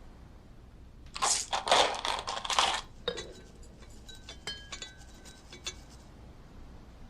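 About a second of loud, rough rustling or scraping, then a scatter of light clinks and taps of small hard objects, some of them ringing briefly.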